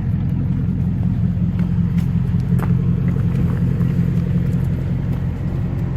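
2003 Chevrolet Avalanche Z71's engine idling with a steady low rumble, with a few faint clicks about two seconds in.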